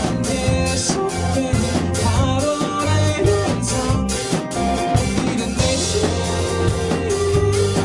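Live rock band playing a song: drum kit beating steadily under electric guitars and bass guitar, with a singer's voice.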